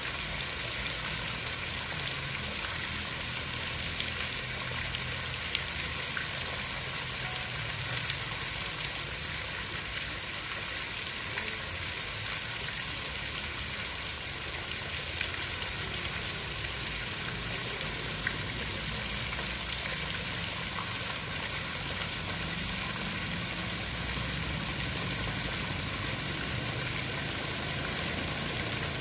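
Steady water noise: an even hiss with a low rumble underneath and a few faint ticks scattered through it.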